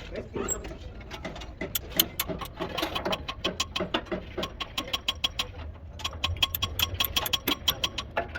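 Quick runs of sharp mechanical clicks from tools being worked during the truck tyre repair, sparse at first and coming fast and dense near the end.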